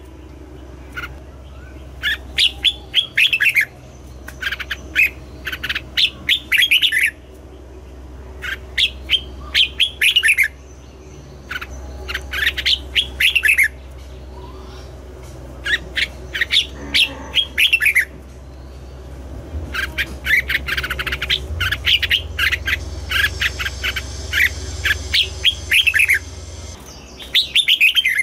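Red-whiskered bulbul singing: short, rapid phrases of bright chirping notes, repeated every second or two, over a steady low hum.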